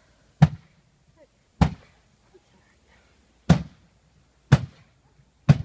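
Sledgehammer blows on a junk refrigerator: five heavy strikes about a second apart, each a sharp bang with a deep thud.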